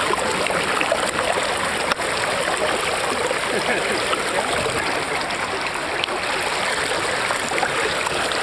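Water running down a water slide, a steady rushing and splashing.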